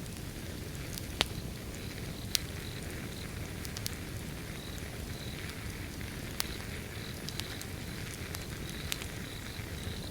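Wood fire burning: a steady low rush of flame with irregular sharp crackles and pops, the loudest about a second in and again just past two seconds. Crickets chirp in short, evenly repeated pulses behind it.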